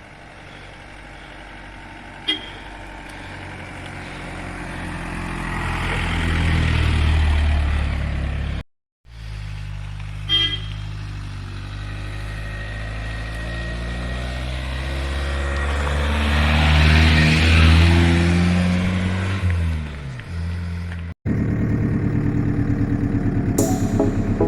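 Cars driving past, the engine sound building as each one approaches and dropping in pitch as it goes by, with short horn toots about 2 and 10 seconds in. Near the end an engine runs close by with a fast, even throb.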